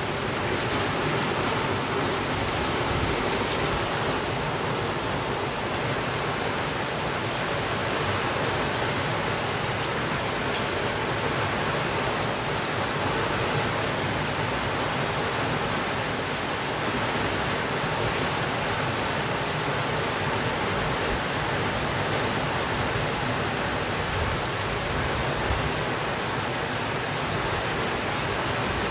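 Steady rainfall, an even wash of noise with no rhythm, breaks or thunder.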